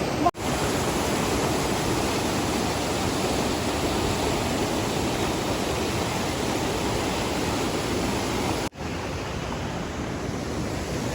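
Steady, even rushing noise, broken by two abrupt cuts, one just after the start and one near the end.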